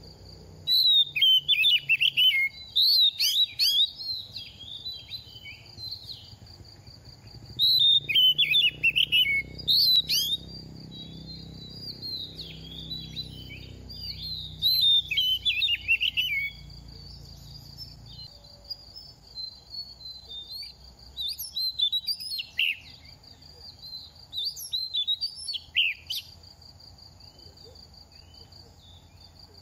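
Oriental magpie-robin singing: about four loud bouts of rapid, varied whistles and chirps, separated by pauses of a few seconds, over a steady high-pitched hum.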